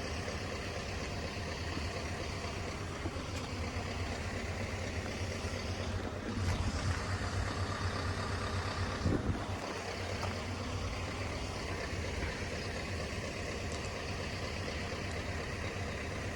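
Steady low hum of idling road-vehicle engines, swelling a little about six seconds in.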